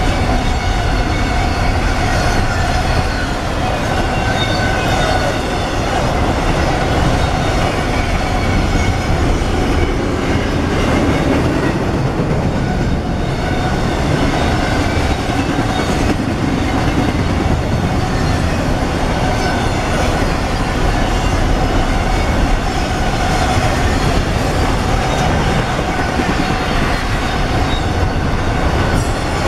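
CSX double-stack intermodal container train rolling past close by: a loud, steady rumble and rattle of steel wheels on the rails, with faint steady whining tones over it.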